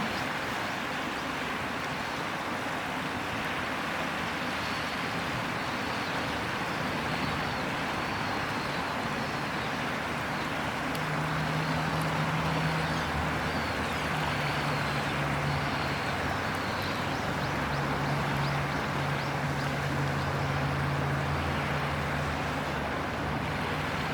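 River water flowing steadily with an even rushing sound. About ten seconds in, a low steady hum joins underneath and continues.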